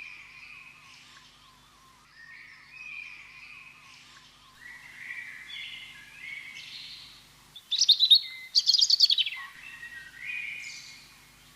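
Several birds singing: repeated short warbling phrases, with two loud, rapid rattling trills about eight and nine seconds in.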